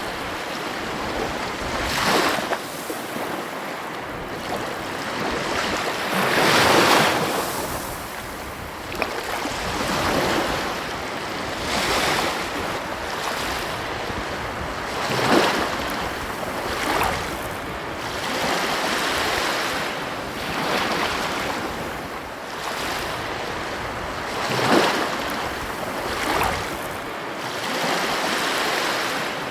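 Ocean surf: waves breaking on the shore one after another, a louder surge every few seconds over a steady wash of water.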